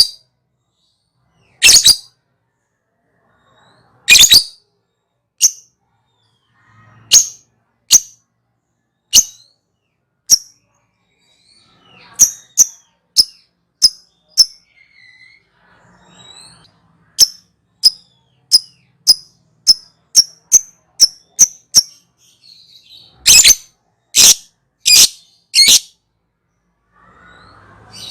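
Lovebird giving short, shrill high-pitched calls: a few spaced calls at first, then a quick run of about two calls a second through the middle, and a burst of four louder calls near the end.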